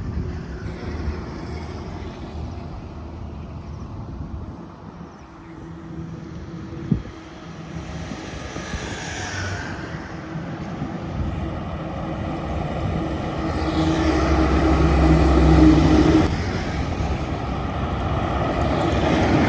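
Heavy Tata diesel trucks passing on a highway: a steady engine drone with tyre noise that swells as a truck comes close, loudest about three-quarters of the way through, then eases off. A single short sharp knock sounds about a third of the way in.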